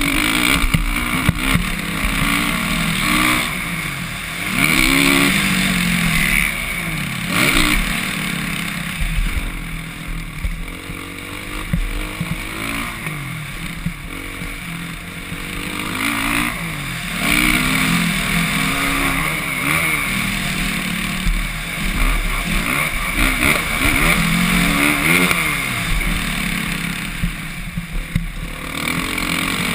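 Suzuki RM-Z450's single-cylinder four-stroke engine ridden hard on a motocross track, its revs rising and falling again and again as the throttle is opened and closed, with several louder surges.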